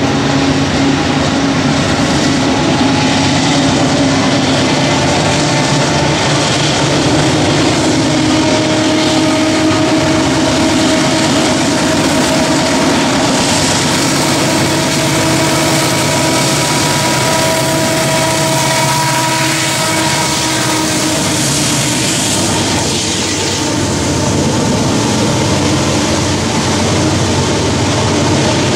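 Freight train passing: diesel locomotives running as they approach and go by, then loaded coal hopper cars rolling past. Steady engine tones sit over a constant rumble.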